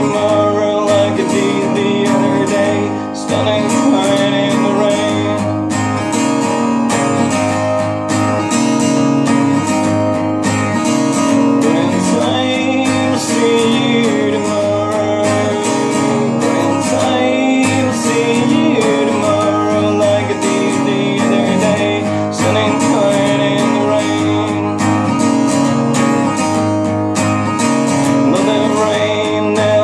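Acoustic guitar strummed in a steady rhythm, with a wavering melody line playing over it, in an instrumental passage of a ballad.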